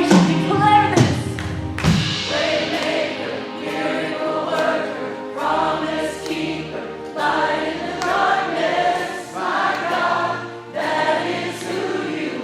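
Live worship band playing with a group of voices singing over it, and a steady beat about every three-quarters of a second.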